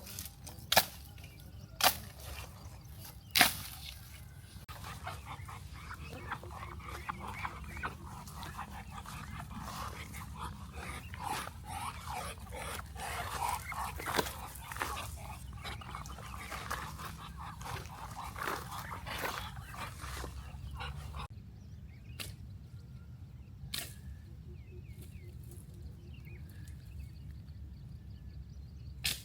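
Many short, high animal calls, busiest in the middle, with three sharp knocks in the first few seconds. The background changes abruptly about two-thirds of the way through, leaving only faint chirps and an occasional click.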